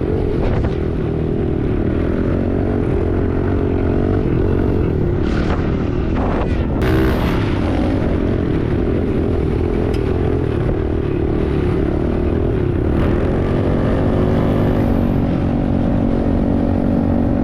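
Small pit bike engine running steadily under way, its pitch shifting a little with the throttle, with a few knocks about five to seven seconds in.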